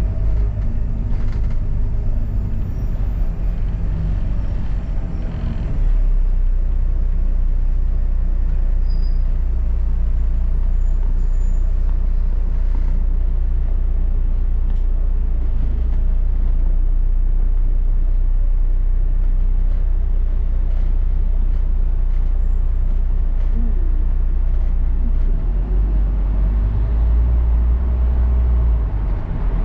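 London double-decker bus running, heard from inside: a steady low engine and road rumble whose pitch shifts about six seconds in and again near the end as the bus changes speed.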